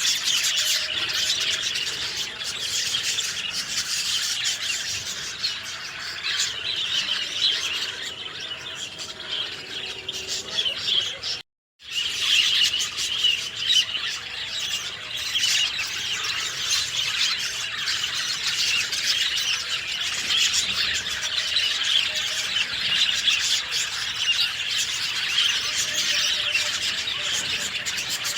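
A dense chorus of many small birds chirping and twittering at once, with shrill overlapping calls. The sound drops out completely for about half a second near the middle, a break in the recording, then carries on as before.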